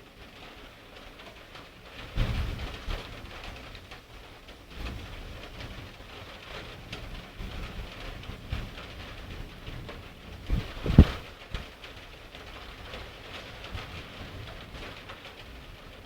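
Thunderstorm: steady rain with rumbles of thunder, one rolling in about two seconds in and a short, sharp low crack, the loudest sound, about eleven seconds in.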